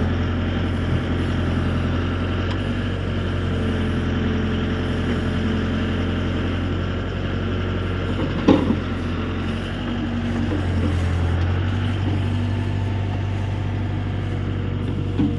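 Mahindra 605 tractor's diesel engine running steadily, with a short knock about eight and a half seconds in and another near the end.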